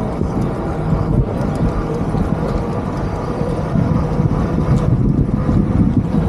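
Steady low rumble of city street traffic and road noise.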